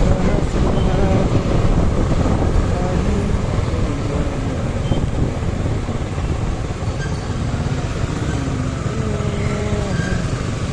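Riding a Suzuki Gixer SF motorcycle: steady engine and road rumble with wind rushing over the microphone.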